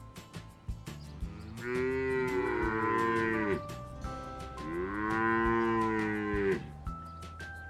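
Cow mooing: two long moos, each rising and then falling in pitch.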